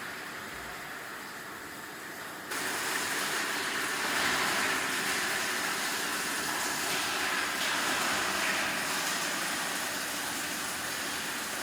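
Steady factory machinery noise, a dense hiss-like din that jumps louder about two and a half seconds in.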